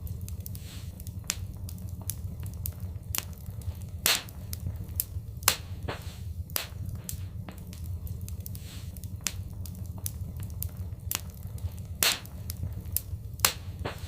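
Fireplace fire crackling: irregular sharp pops and snaps over a steady low rumble, with a few louder pops about four seconds in and near the end.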